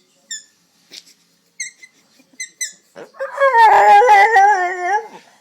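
Dog giving several short, high-pitched squeaky whines, then, about three seconds in, a loud, long howl whose pitch wobbles up and down for about two seconds.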